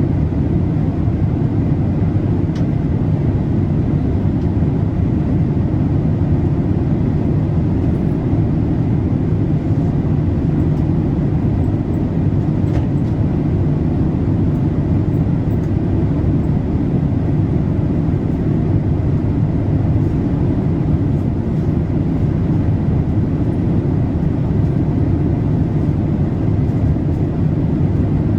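Steady low rushing drone of a Boeing 787-8 cabin in flight, airflow and engine noise, with a faint steady high tone above it.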